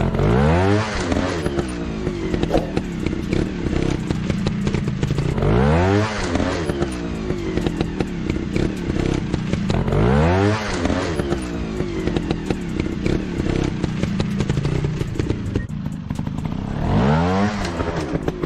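Dirt bike engine revving sharply up and back down four times, several seconds apart, running steadily in between, with scraping and clattering throughout.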